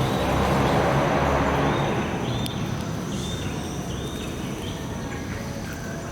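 A motor vehicle's engine running, swelling louder in the first couple of seconds as it passes and then fading, with a few short high chirps over it near the middle.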